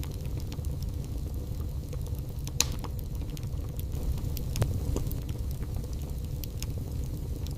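Wood fire burning in a fireplace: a steady low rumble of the flames with scattered crackles and pops from the logs, the loudest pop about two and a half seconds in.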